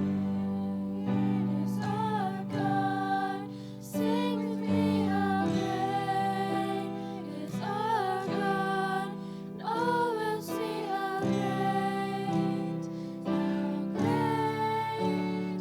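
A song sung by a voice over acoustic guitar accompaniment, with held chords and a flowing melody line.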